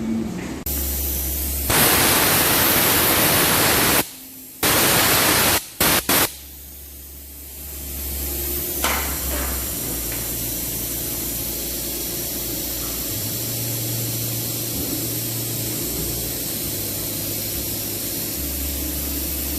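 Hissing jet of spray or air cleaning a machine's drive shaft. It comes in three loud bursts in the first six seconds, the first about two seconds long, then settles into a steadier, quieter hiss.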